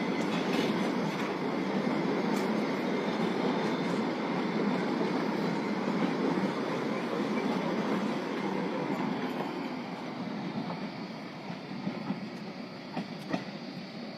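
Kalka–Shimla narrow-gauge toy train running on its track: a steady rumbling noise that fades gradually over the last few seconds, with a few sharp clicks near the end.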